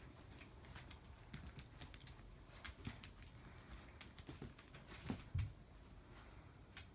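Faint, irregular light clicks and taps from a dog playing with a cat-teaser wand toy, with a soft thump about five seconds in.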